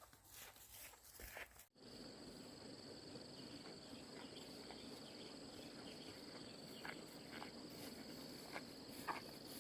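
Faint outdoor ambience: a steady high-pitched insect drone sets in abruptly about two seconds in, with a few faint footsteps and clicks.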